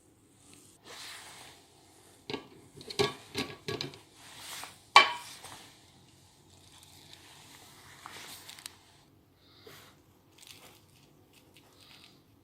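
Hard objects being handled: a string of clicks and knocks with scraping in between, the loudest a sharp click about five seconds in.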